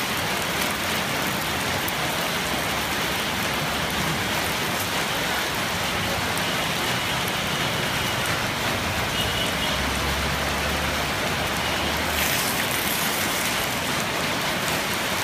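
Batter and oil sizzling steadily in the cups of a cast-iron nom kruk pan over a fire, with fine crackling throughout.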